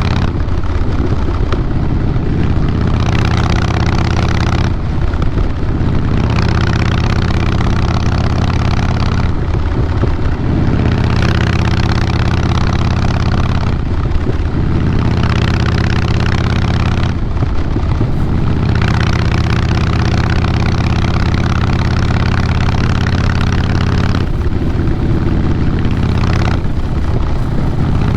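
Exhaust note of a 2012 Harley-Davidson Fat Boy Lo's Twin Cam 96B V-twin through a Vance & Hines Big Radius 2-into-2 exhaust, running hard with the revs rising and falling. The note drops briefly about every four to five seconds, five times, like the throttle rolling off and back on.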